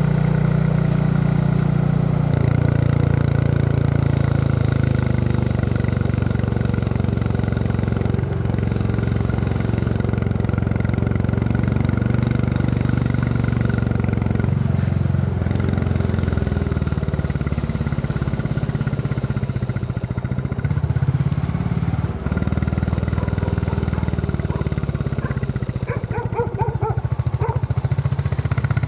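Royal Enfield Classic 350's single-cylinder engine thumping along under way, its note shifting up and down several times with throttle and gear changes.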